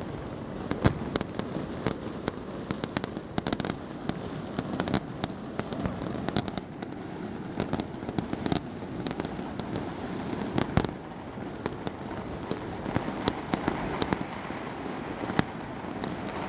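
Many fireworks going off at once: a continuous rumble of distant bangs with sharp cracks and pops scattered irregularly throughout, with no pause.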